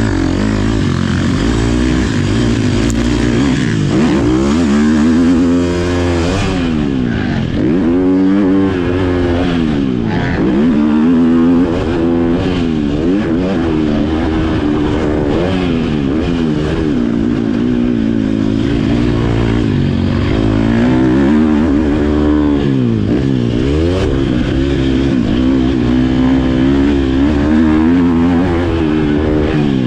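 Motocross bike engine revving hard and dropping off again and again, its pitch climbing and falling every second or two as the throttle is opened and closed.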